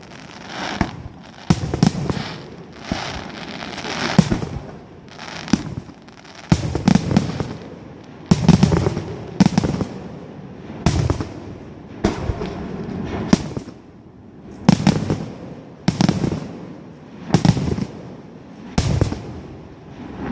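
Fireworks display: firework bursts going off one after another, a sharp bang about every second, each followed by a low rumbling boom.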